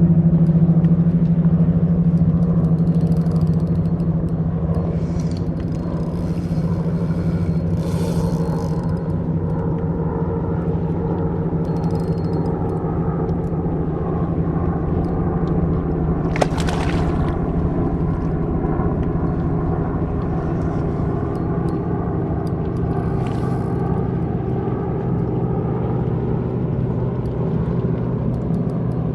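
Steady engine drone at a constant pitch with a strong low hum, typical of a motorboat engine running. A short hiss about sixteen seconds in.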